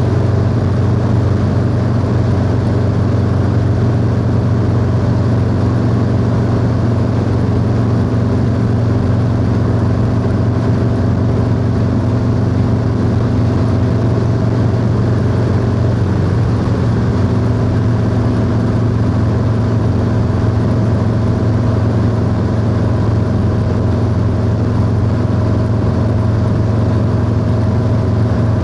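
Harley-Davidson Low Rider S Milwaukee-Eight V-twin running through a 2-into-1 exhaust at a steady cruise, its engine speed barely changing, with wind and road noise mixed in.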